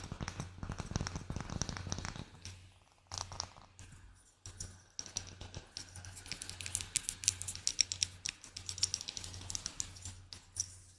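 Rapid light tapping, fast runs of small clicks: dense for about the first two seconds, sparse for a few seconds, then quick again from about five seconds in until near the end.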